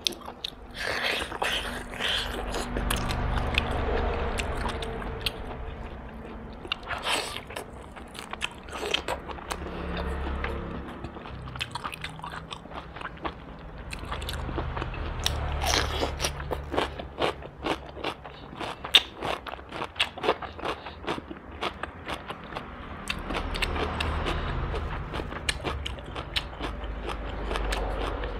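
Close-miked eating of roast duck: steady biting and chewing with many small crunches, irregular and continuous.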